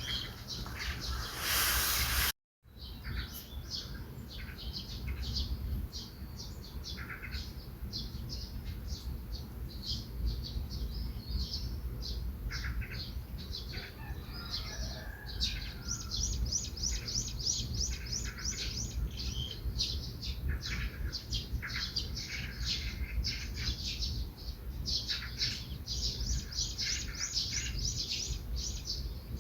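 Several songbirds chirping and singing in the morning, with quick repeated trills, over a steady low rumble. About two seconds in there is a brief loud rush of noise, then a moment of silence.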